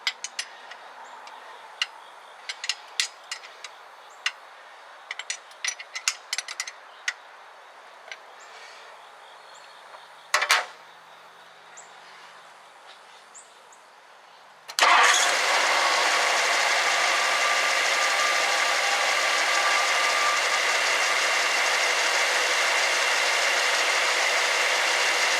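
Scattered metallic clicks of a wrench tightening the distributor hold-down, with a brief louder clatter about ten seconds in. Then, about fifteen seconds in, the 1964 Ford Thunderbird's V8 starts suddenly and idles steadily with its ignition timing freshly set.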